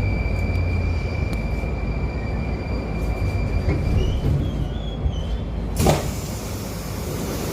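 Moscow metro carriage standing at a station: a steady low rumble and hum of the train's equipment, then a single sharp bang about six seconds in as the sliding doors slam shut before departure.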